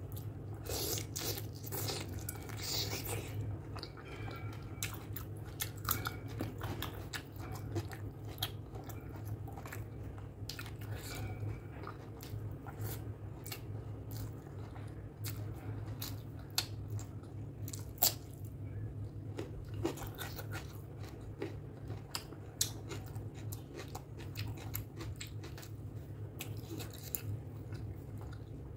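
Close-miked chewing and biting of pork curry and rice eaten by hand, with many short wet mouth clicks and smacks. A steady low hum runs underneath.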